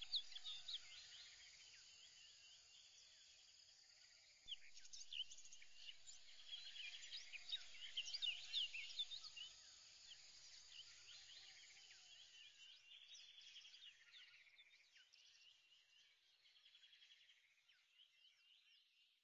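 Faint birdsong ambience: many quick, high chirps and short trills overlapping, louder from about four seconds in and fading out near the end.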